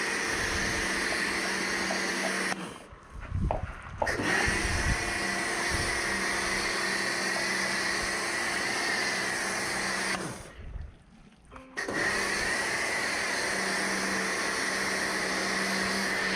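Kärcher pressure washer running and spraying with a steady hiss and a wavering high whine, cut off twice for about a second as the trigger is let go, then starting again at once.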